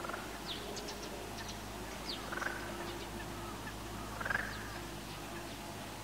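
Short high bird chirps and peeps scattered through, with two louder ones about two and four seconds in, over a steady low hum.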